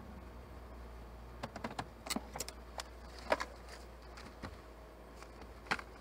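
Car engine running with a steady low hum, heard from inside the cabin and sped up to double speed. A cluster of sharp clicks and knocks comes between about one and a half and three and a half seconds in, and one more near the end.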